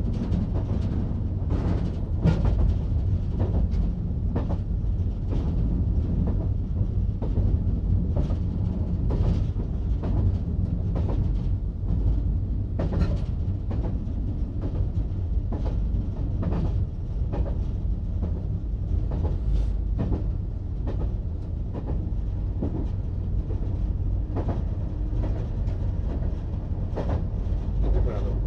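Diesel multiple-unit train running along the track: a steady low rumble with irregular clacks of the wheels over rail joints every second or two.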